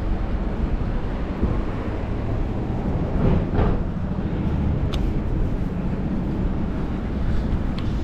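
Steady wind and street traffic rumble heard while riding a bicycle, with a brief swell of a passing vehicle about three seconds in and a sharp click about five seconds in.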